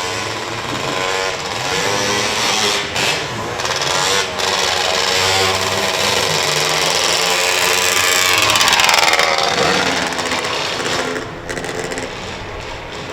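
Motorcycle engine revving up and down, with two brief drops in the first few seconds; it climbs to its highest and loudest just before the end, then falls away about ten seconds in.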